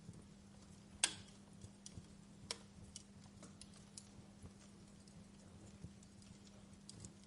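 Wood fire crackling in a fireplace: irregular sharp pops and snaps, the loudest about a second in, over a faint hiss and a steady low hum.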